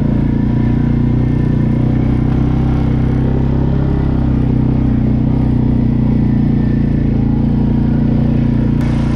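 A 2014 TGB Blade 425 quad bike's engine running at a fairly steady speed while the quad is ridden.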